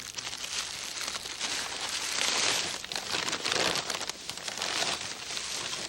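A small group applauding, swelling about two seconds in and carrying on unevenly.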